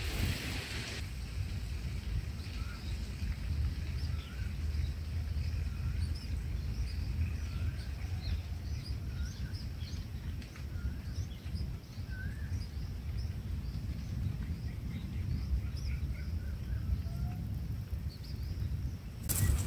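Many short, faint bird chirps scattered throughout, over a steady low rumble. A brief loud rush near the end.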